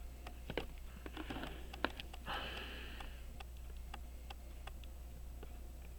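Light, sharp clicks of tweezers against the small metal parts of a pocket watch movement being assembled, the loudest just before 2 s in, with two short breaths through the nose around the one- and two-second marks.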